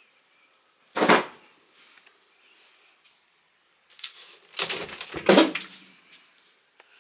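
Wooden wardrobe cabinet being opened and shut: a short, loud sliding knock about a second in, then a longer run of such sounds from about four to six seconds in.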